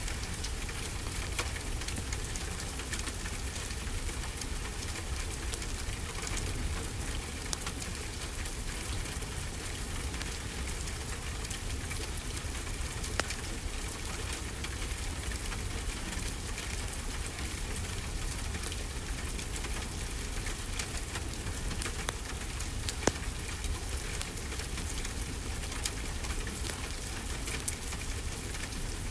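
Steady rainfall with a wood fire crackling, scattered small clicks and a couple of sharper pops.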